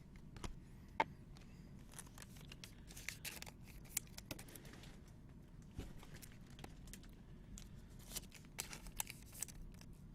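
Faint tearing and crinkling of trading-card pack wrappers being opened, with scattered light clicks and rustles.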